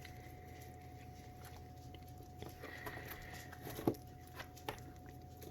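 Faint licking, chewing and small wet clicks of puppies and their mother dog at soft food, with a sharper click nearly four seconds in and a short faint high squeak a little before it. A faint steady hum sits underneath.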